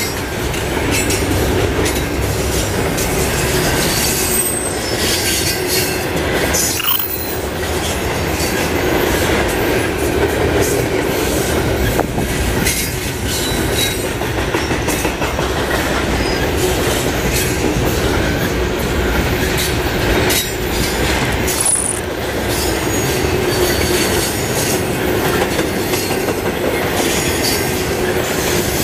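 Double-stack intermodal well cars rolling past close by: a steady rumble and rattle of steel wheels on rail, with frequent clicks and a few brief high wheel squeals.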